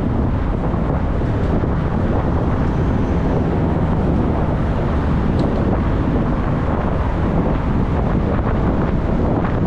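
Steady wind buffeting the microphone of a camera riding on a moving e-bike, an unbroken low rushing noise.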